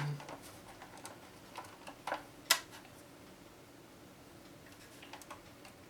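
A few faint clicks and taps from handling a boombox's casing, the sharpest about two and a half seconds in, with a couple of softer ticks near the end.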